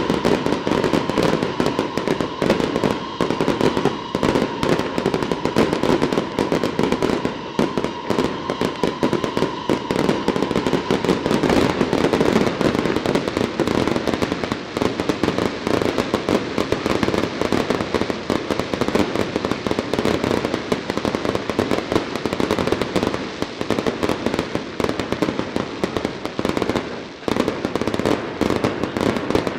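A fireworks display going at full barrage: a dense, unbroken run of rapid bangs and crackling star bursts. A steady high tone sounds over it for about the first ten seconds, and there is a brief lull about 27 seconds in.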